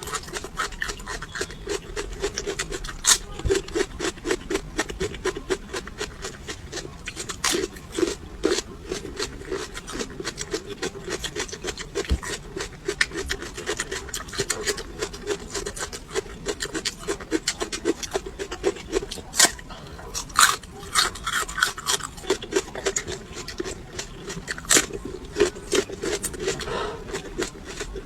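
Close-up chewing of crunchy raw chili peppers: a continuous run of wet crunches and crackles, with a few sharper loud crunches.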